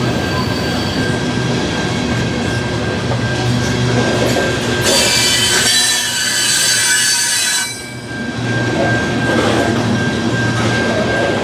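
Train rolling past close by, a steady rumble of wheels and engine, with a high-pitched metallic wheel squeal for about three seconds midway.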